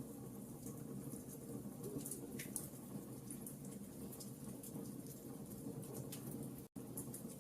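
Wood fire crackling: many small, sharp pops and snaps over a steady low rumble of burning. The sound drops out to silence for an instant near the end.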